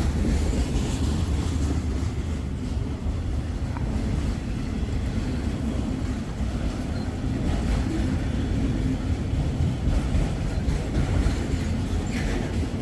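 Freight train cars rolling past on the rails: a steady low rumble of wheels on track.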